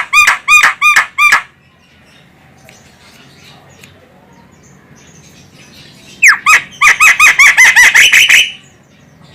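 Javan myna (jalak kebo) calling: two bouts of rapid, harsh, repeated notes, about six or seven a second. The first bout ends about a second and a half in; the second starts after a pause of about five seconds and runs for about two seconds.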